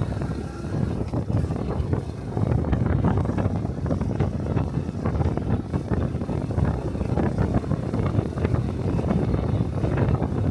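Exhaust and engine of a 125 cc Honda Cub single-cylinder motorcycle running while riding, with wind buffeting the microphone.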